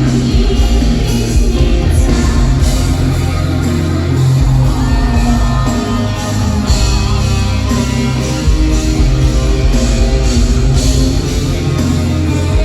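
Live band music with a singer's voice over electric guitars and heavy bass, loud and unbroken, heard through a large hall.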